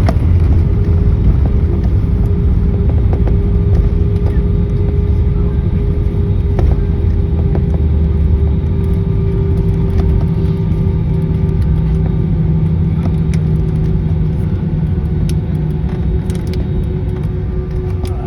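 Airliner landing: a steady low rumble of engines and airflow with a steady hum over it, gradually easing off.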